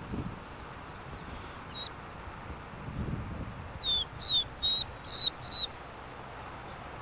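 A small songbird calling: a single short high note, then about four seconds in a quick run of five short high notes, several sliding down in pitch.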